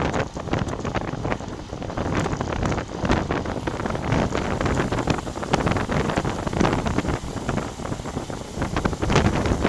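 Wind buffeting the microphone of a moving bicycle's front camera: a loud, gusty rumble that rises and falls.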